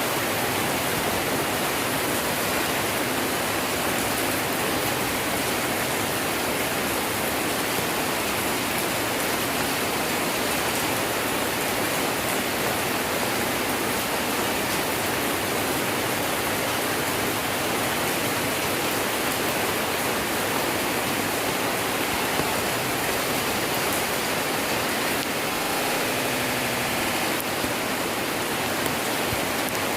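Heavy rain falling at night: a steady, dense hiss. About 26 seconds in, a faint tone sounds briefly over it.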